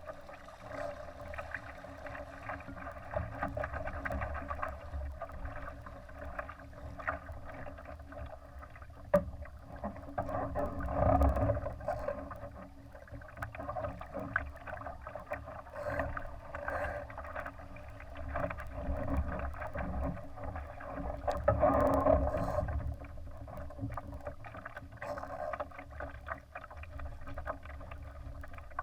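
Water rushing and slapping against the hull of a Laser sailing dinghy under way, with wind rumbling on the microphone. It surges louder twice, about a third and three quarters of the way through.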